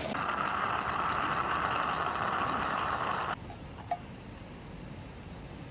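A steady hiss, then after an abrupt cut about three seconds in, a steady high-pitched insect chorus of summer crickets.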